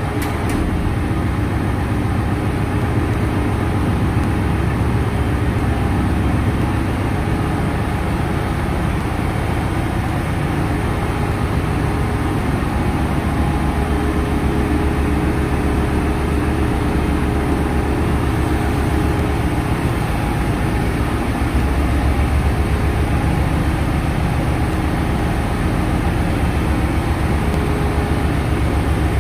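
Ship's engine-room machinery running: a loud, steady low drone with a fast, even throb, rising slightly in the low end about two-thirds of the way through.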